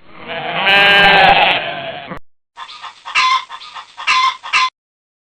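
An animal's long, wavering, pitched call lasting about two seconds. After a short break it is followed by a different clip of short repeated animal calls, three of them louder than the rest.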